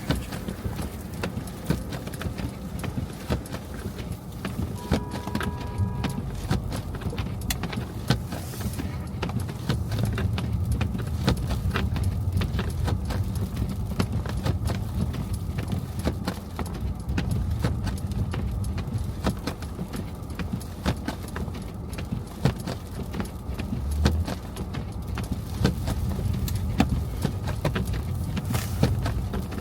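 Car driving through snow-covered city streets: a steady low road rumble with many irregular clicks and crackles. A short beep sounds about five seconds in.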